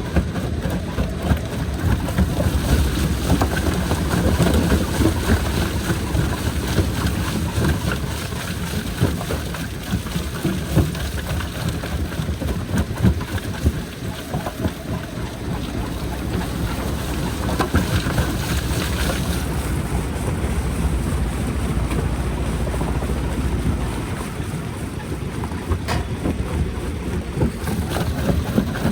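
Jaw crusher running and crushing rock: a steady heavy rumble with occasional sharp cracks and knocks.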